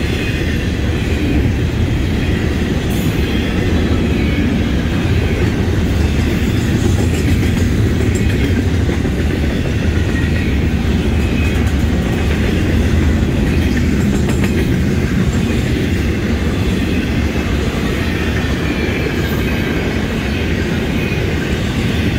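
Double-stack container well cars of a long freight train rolling past close by: a steady rumble and clatter of steel wheels on the rails.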